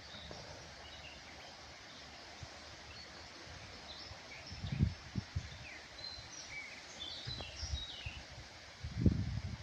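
Small birds chirping and twittering over a steady outdoor hiss, with a few short low thumps about halfway and again near the end.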